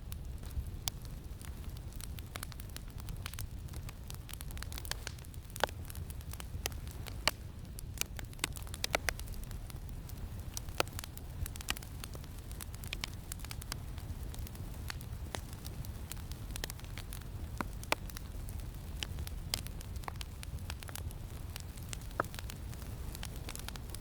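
Campfire crackling, with sharp pops at irregular intervals, a few of them louder than the rest, over a steady low rumble of wind.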